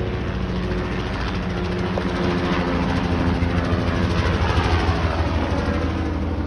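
Helicopter flying past, its rotor and engine growing louder to a peak about four to five seconds in, with the pitch falling as it goes by.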